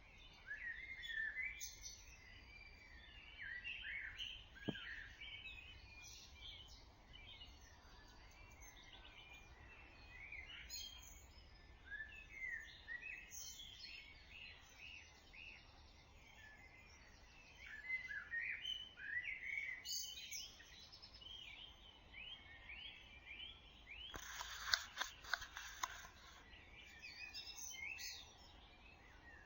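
Dawn chorus of several songbirds singing over one another in short, overlapping phrases, with a loud, rapid run of song about four-fifths of the way in. A faint steady low hum sits underneath.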